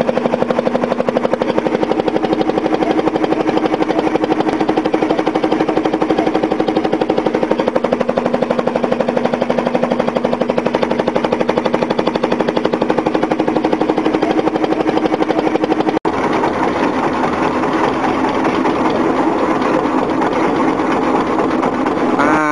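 Small engine running steadily with a rapid, even putter. The sound changes abruptly about 16 seconds in, and the engine revs up with rising pitch at the very end.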